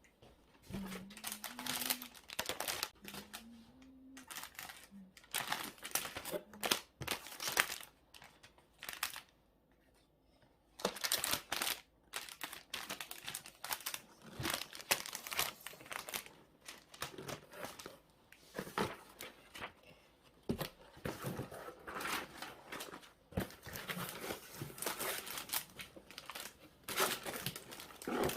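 Plastic packaging crinkling and rustling in irregular handfuls as parcels are packed by hand, with a short pause about ten seconds in.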